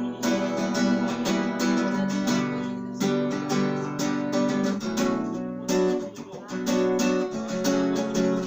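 Acoustic guitar strummed in a steady rhythm, several strokes a second, with a short softer moment about six seconds in.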